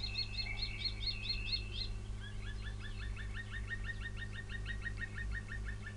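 Faint birdsong over a steady low hum. A bird repeats a short high chirp several times a second for about a second and a half. Then comes a longer, rapid series of short down-slurred notes.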